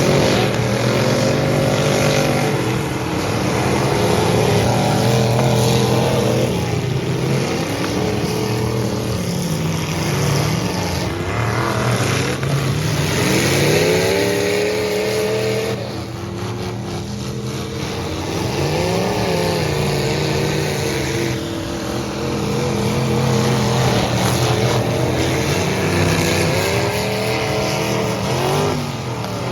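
Engines of several full-size demolition derby trucks revving, their pitch repeatedly climbing and falling as the trucks accelerate and back off.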